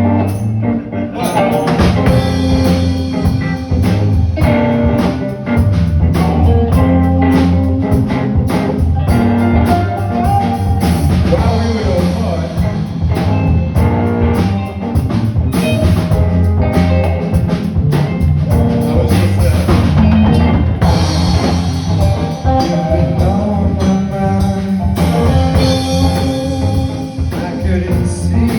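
Live band playing a song with drum kit, guitar and a singing voice.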